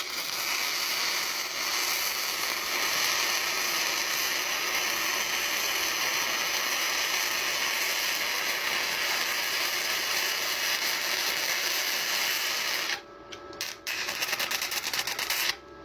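Welding arc crackling and hissing steadily for about thirteen seconds. It stops, starts again for a short second run, and cuts off near the end.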